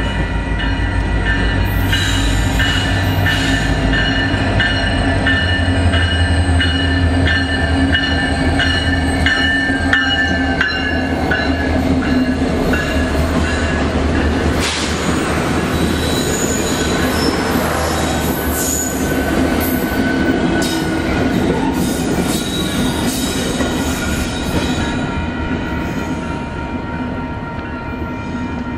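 Union Pacific heritage passenger special rolling past at trackside. The low diesel locomotive rumble is strongest over the first ten seconds or so, along with a regular clicking. Then the passenger cars roll by with steel wheels squealing on the rails.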